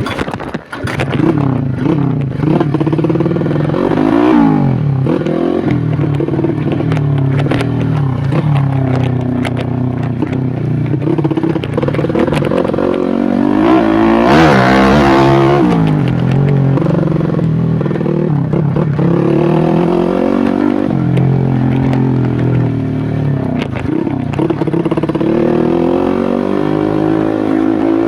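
Modified Yamaha Jupiter Z 130cc four-stroke underbone motorcycle engine revving up and down under load on a rocky trail, with clattering and knocks from the bike over stones. The revs climb to their highest about halfway through, then drop back.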